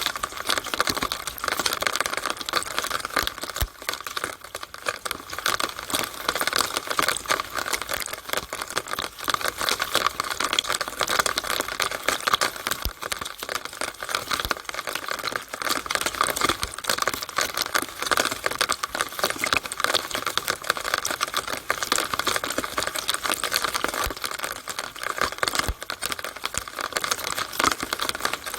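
Rainwater pouring and dripping through a rain gutter downpipe, a dense, unbroken crackle of drops and trickling water.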